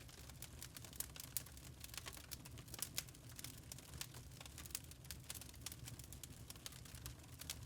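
Wood fire crackling in a fireplace: many small irregular pops and snaps over a faint low rumble of the flames.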